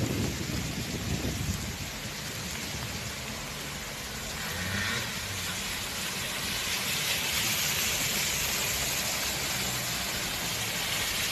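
Steady rushing noise of storm rain and water with a vehicle engine running underneath; the hiss grows stronger after about six seconds.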